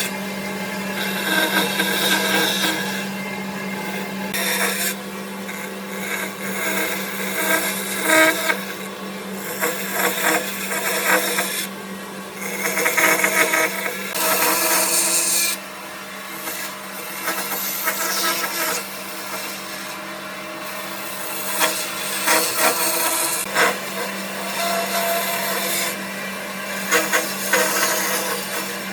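Wood being worked with tools: irregular scraping and rubbing on wood over a steady motor hum, with louder bursts coming and going.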